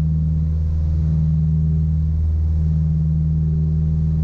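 The twin piston engines of a Piper Apache running at steady power in the climb, a low drone with a slight slow swell and fade in its pitch.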